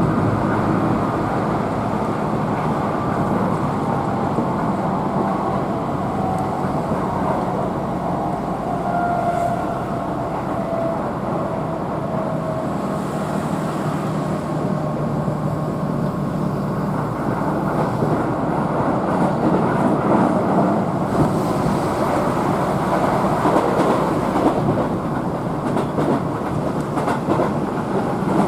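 Keihan electric commuter train running at speed, heard from inside the passenger car: a steady rumble of wheels on rail with a faint motor whine.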